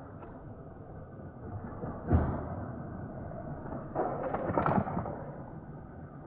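Toy die-cast cars and plastic Hot Wheels track clattering: a single thump about two seconds in, then a rattling rush about four seconds in that lasts around a second.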